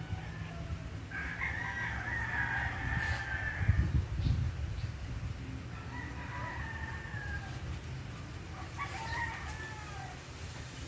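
A rooster crowing, three long calls, over a steady rumble of wind on the microphone that gusts harder about four seconds in.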